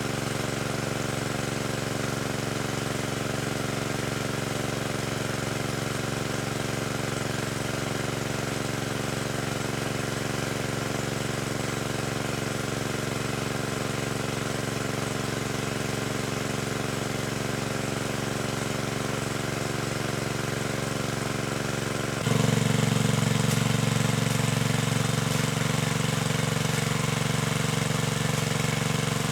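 A small engine running steadily, which becomes suddenly louder and deeper about three-quarters of the way through.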